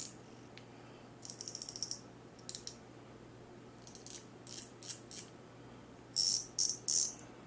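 Freshly reassembled fishing reel being worked by hand: its gears and ratchet pawl click in quick runs, a fast even run of about ten clicks a second near the start and louder clattering bursts near the end.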